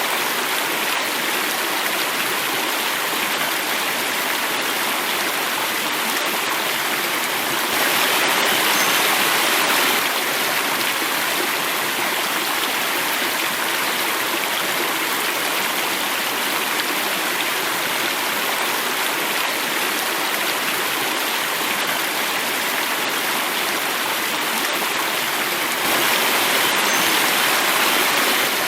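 Water of a stream running and falling over a small cascade, a steady rush. It swells a little louder and brighter for about two seconds, once about eight seconds in and again near the end.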